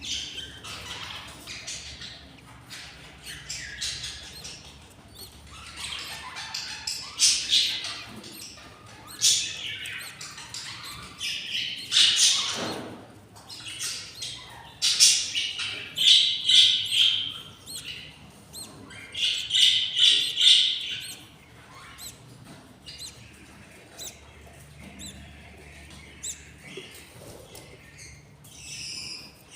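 Budgerigars chirping and squawking in a run of harsh, high calls that are loudest through the middle, then die down to quieter chatter near the end.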